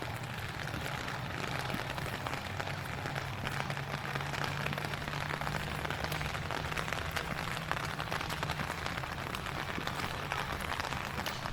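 Heavy rain falling and spattering on a wet pier surface: a steady dense hiss full of fine drop patters. A steady low hum runs underneath and fades out about nine seconds in.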